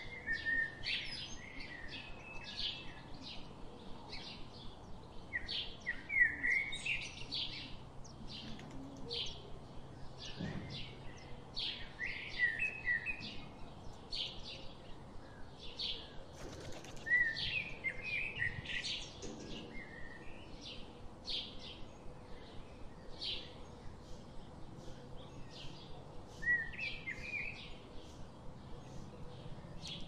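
Small birds chirping: a short, high chirp repeated about twice a second, with bursts of twittering calls now and then.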